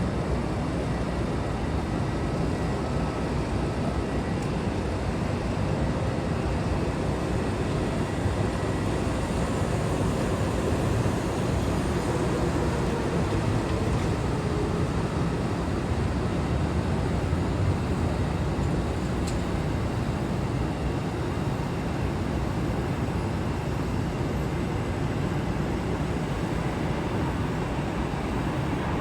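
Steady jet aircraft engine noise, holding level throughout with no distinct rise or fall.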